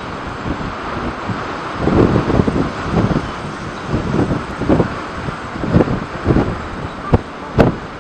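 Blizzard wind of about 40 knots buffeting the microphone, a continuous rushing noise with uneven low rumbling gusts swelling every second or so. Two sharp clicks near the end.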